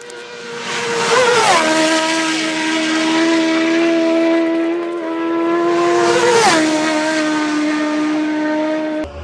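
Racing motorcycles passing at full speed, two flybys about five seconds apart. Each engine note drops sharply in pitch as the bike goes by, then holds as it pulls away.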